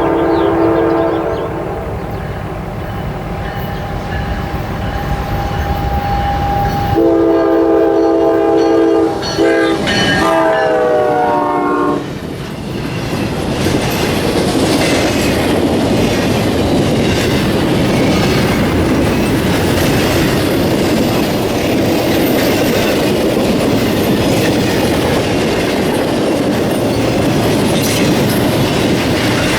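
Diesel freight locomotive horn: a short blast, then a longer one a few seconds later that drops in pitch as the locomotive passes. The train's cars then roll by with steady wheel clatter.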